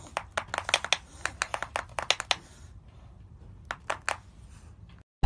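A rapid, irregular run of sharp clicks or taps that thins out after about two and a half seconds, with a few more near the end.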